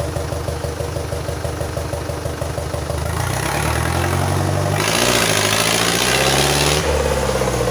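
An engine running with a steady pulse, its pitch shifting up and down as it is revved. About five seconds in, a louder rush of hissing noise joins it for about two seconds.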